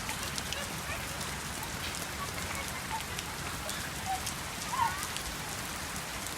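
Steady rain falling, with many individual drops ticking sharply on surfaces. A brief high-pitched cry or call a little before five seconds in.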